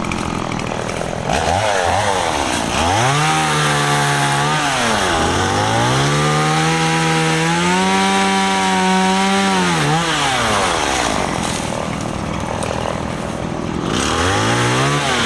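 Stihl MS 170 two-stroke chainsaw revved to full throttle in two long bursts, with a brief dip between them. It drops back to idle about ten seconds in, then revs up again near the end.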